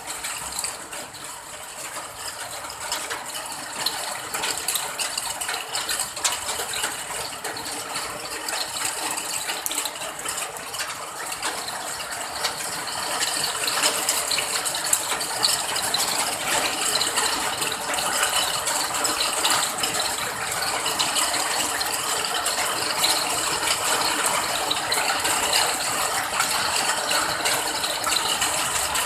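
Steady rain, a dense pattering of many small drops, growing somewhat heavier about halfway through.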